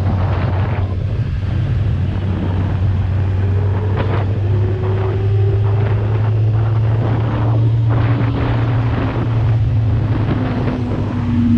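An inline-four sport motorcycle engine running at a steady cruise, with wind rushing over the microphone. A fainter engine tone slowly falls in pitch through the second half.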